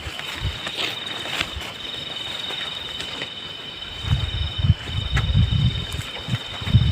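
Night insects trilling steadily at a high pitch, the trill pausing briefly now and then. Low thumps and rumbles come in from about four seconds in, louder than the insects.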